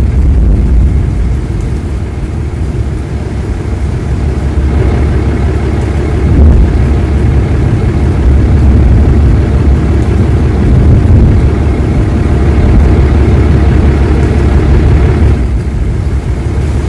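A vehicle on the move: a loud, steady low rumble of engine and road noise.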